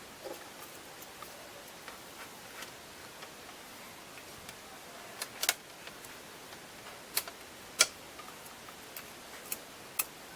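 Irregular sharp clicks and light taps of small hard parts being handled, with the loudest few between about five and ten seconds in.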